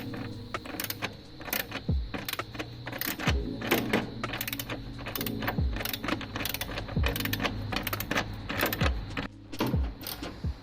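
Irregular rapid mechanical clicking, typical of a socket ratchet tightening the radiator and shroud mounting bolts, with a low thump now and then.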